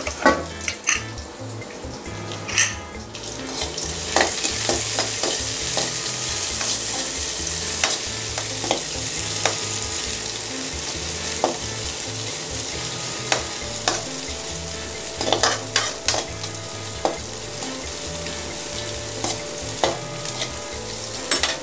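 Sliced shallots, green chilli and mustard seeds sizzling in hot oil in a metal kadai for a tempering, the sizzle growing louder about four seconds in. A steel spatula scrapes and clicks against the pan as they are stirred.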